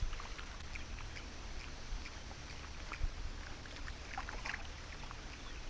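Outdoor boat ambience: steady low wind rumble on the microphone, with faint scattered ticks.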